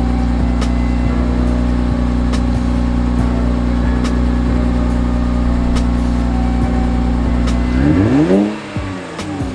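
Infiniti Q50 3.0t's twin-turbo V6 through an aftermarket Invidia exhaust, idling steadily after a cold start. Near the end it gets one quick rev that rises and falls back.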